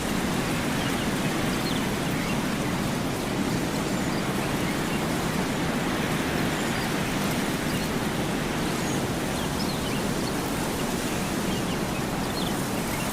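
Steady, unbroken rushing noise like wind or running water, heaviest in the low range.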